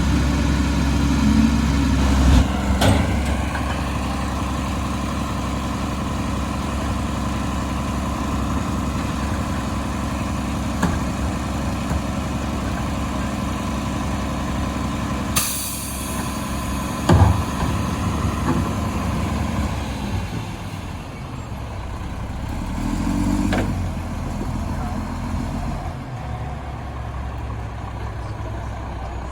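Garbage truck's diesel engine running, with a few sharp clanks and a sudden hiss of air brakes about halfway through.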